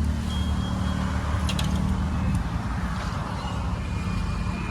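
Steady low rumble of a motor vehicle running, with road noise. A couple of clicks about a second and a half in, and brief high-pitched tones near the start and again near the end.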